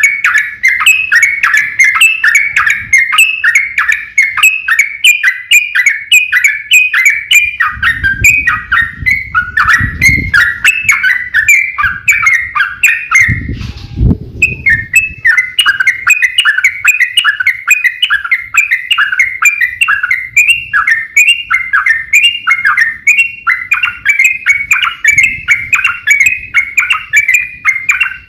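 A yellow-vented bulbul (trucuk) sings a fast, unbroken 'ropel' run of short chirping notes, two to three a second, which pauses briefly about halfway through. This continuous song is used as a stimulus to set other caged trucuk singing. A low rumble sounds twice beneath the song, once about a third of the way in and once just before the pause.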